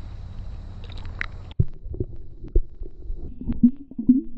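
Muffled low thumps and knocks on the camera microphone from footsteps and handling while walking, over a low rumble; the sound changes abruptly about one and a half seconds in.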